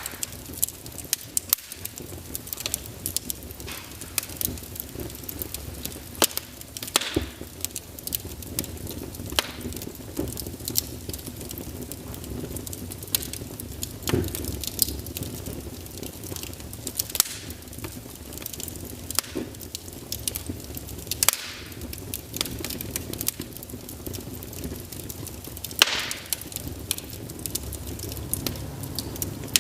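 Wood fire burning in a fireplace, crackling with frequent irregular sharp pops and snaps over a low steady rumble of flame.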